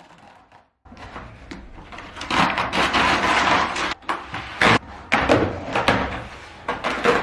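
Handling noise in a small room: a stretch of rustling and scraping with several sharp knocks of wood or other hard objects, as things are moved about.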